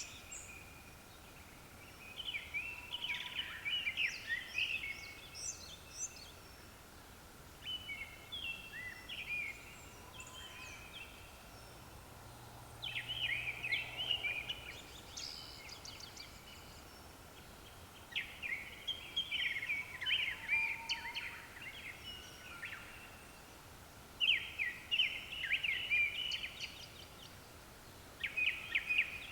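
Japanese thrush singing: about six short phrases of quick, varied notes, each a second or two long, with pauses of a few seconds between them.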